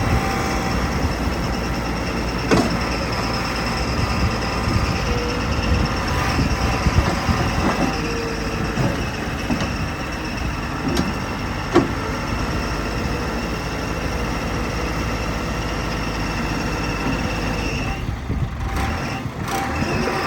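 Cat 416B backhoe loader's turbo diesel engine running steadily while the machine is worked, with a thin steady whine over the engine and a couple of sharp knocks.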